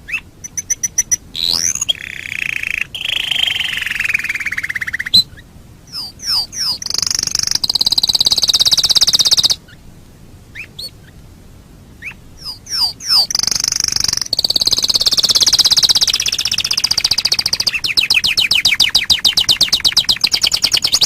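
Domestic canary singing: long, fast rolling trills held for a few seconds each, broken by quick whistled sweeps, with a short pause near the middle.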